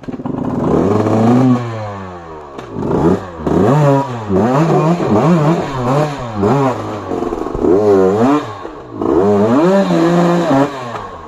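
Off-road trail motorcycle engine revved up and down again and again, about once a second, the pitch climbing and dropping with each twist of the throttle.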